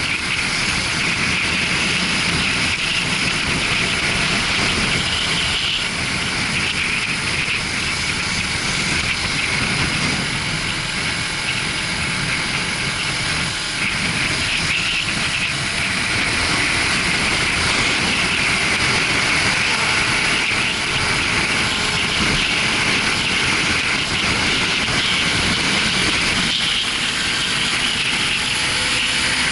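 Motorcycle riding at a steady speed: wind rushing over the action-camera microphone, with the engine running underneath.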